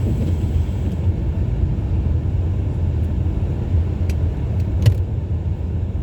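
Steady low road and engine rumble heard from inside a car driving on a snow-covered road, with a few sharp clicks, the loudest about five seconds in.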